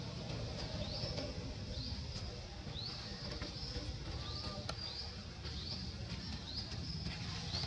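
A bird calling over and over, a short high rising chirp about every two-thirds of a second, over a low rumble.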